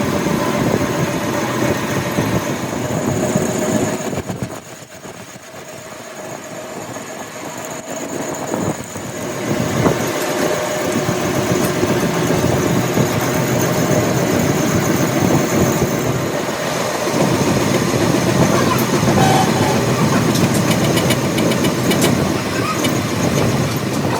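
Steady machine noise that drops quieter for a few seconds about four seconds in, then comes back, with a run of sharp clicks near the end.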